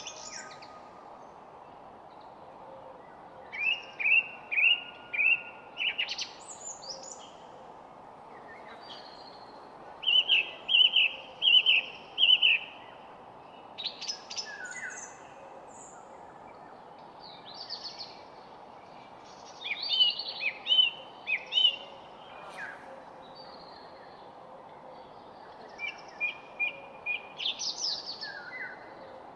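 Songbirds singing: phrases of quick, repeated chirps every few seconds, several bursts of four to six notes each, over a steady background hiss.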